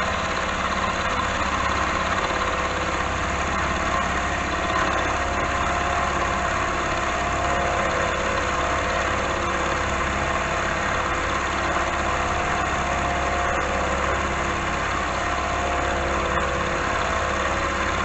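Milling machine spindle running at about 900 RPM while the cutter takes a light, slow hand-fed cut through a steel block, a steady hum and whine.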